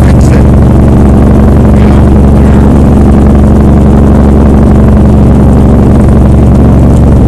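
Truck engine running steadily under load, a loud, even low drone.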